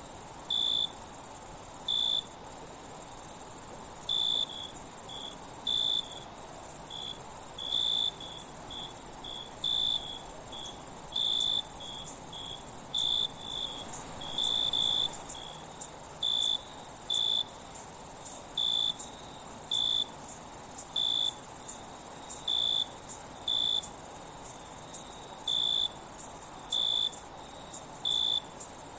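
Night insect chorus: crickets giving a steady, very high continuous trill, with short, lower-pitched chirps repeating irregularly over it, about one every second or so.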